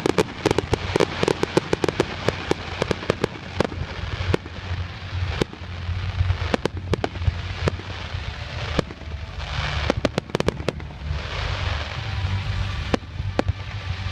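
Fireworks display: rapid volleys of sharp crackling bangs, packed tight for the first few seconds and then more scattered, with a couple of hissing stretches past the middle.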